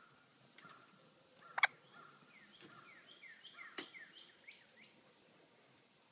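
A small pet bird tucked inside a shirt gives a quick run of short chirps about two seconds in, with a few sharp clicks, the loudest one just before the chirps start.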